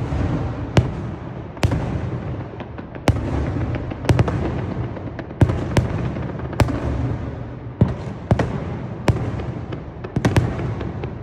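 Aerial fireworks bursting, a sharp bang about every second and sometimes two in quick succession, with a rolling, echoing rumble between the bangs.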